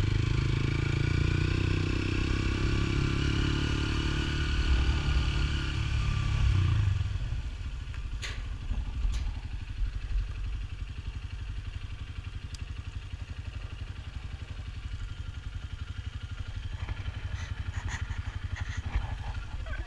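Motorcycle engine running with road and wind noise, which drops away about seven seconds in as the bike slows to a steady idle; a couple of sharp clicks follow shortly after.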